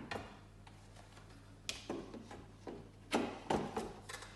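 Scattered knocks and clicks of a De'Longhi La Specialista espresso machine's built-in tamping lever and portafilter being worked, with a quick run of louder knocks about three seconds in, over a faint low hum.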